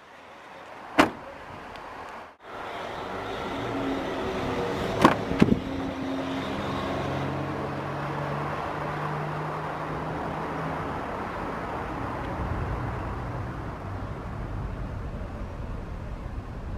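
A sharp click about a second in and two knocks around five seconds in, then steady outdoor road-vehicle noise with a low engine hum from a passing vehicle.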